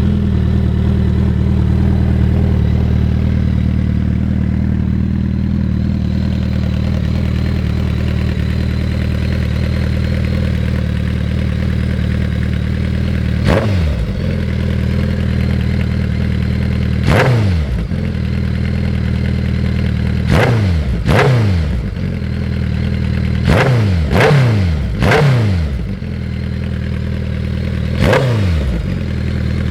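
2009 Suzuki Hayabusa GSX1300R's inline-four engine idling steadily through a Hotbodies Racing megaphone muffler, then blipped about nine times in the second half, each blip a quick rise and fall in revs.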